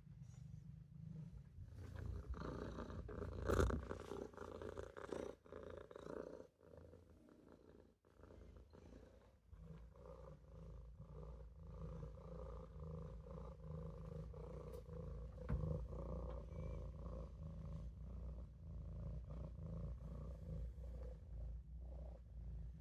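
Maine Coon kitten purring steadily, with a short louder noise about three and a half seconds in. The purr drops away briefly about seven seconds in, then picks up again and runs on evenly.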